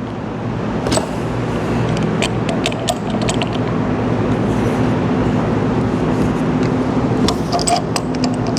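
Steady mechanical hum of running machinery with scattered light metallic clicks and taps of tools on metal pump fittings while the fluid filter manifold is being loosened.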